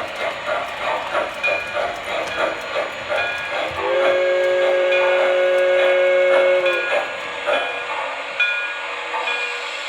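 O gauge model train running on its layout, wheels clicking over the rail joints in a steady rhythm; about four seconds in, its sound system blows a whistle chord held for about three seconds.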